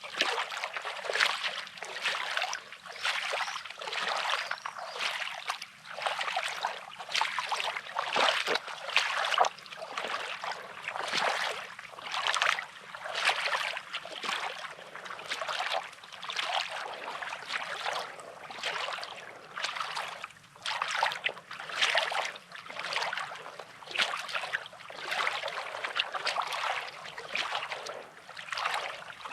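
Small sea waves lapping and washing over a pebbly shore, a continuous hiss that swells and falls in soft surges about once a second.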